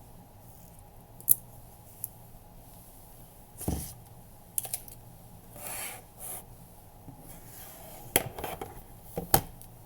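Irregular clicks and short rustling and scraping sounds of small objects being handled, over a low room hum.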